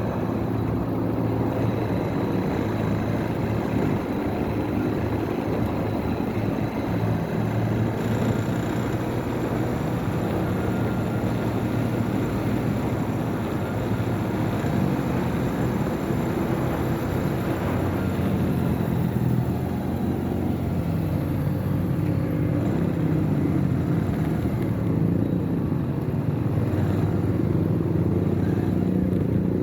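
Motorcycle engine running on the move, its note rising and falling with changes in speed, over a steady rush of road noise.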